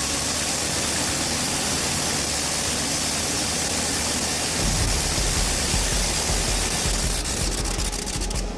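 Gnome Omega rotary aircraft engine running with a loud, steady rushing of air, like propeller blast. A low, fast throbbing joins in a little past halfway.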